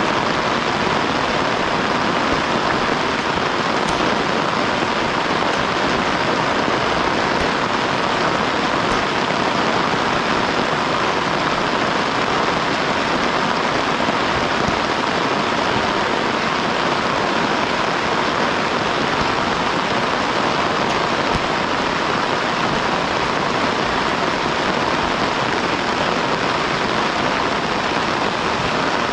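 Heavy rain pouring down in a steady, dense downpour with no let-up.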